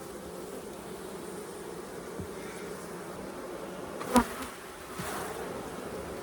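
Honey bees buzzing steadily around an open beehive, with one sharp knock about four seconds in.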